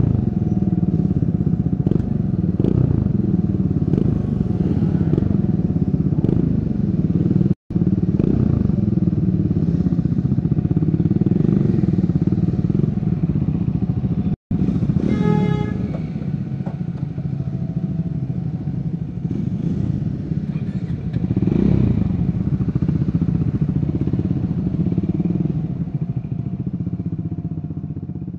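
Triumph Scrambler 400 X's single-cylinder engine running under way, its pitch rising and falling as it is ridden. A horn sounds briefly about fifteen seconds in, and the sound fades out at the end.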